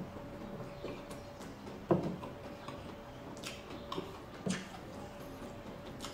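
Close-up mouth sounds of a person eating stir-fried egg noodles by hand: scattered wet clicks, smacks and chewing, the loudest about two seconds in and again about four and a half seconds in, over a faint steady hum.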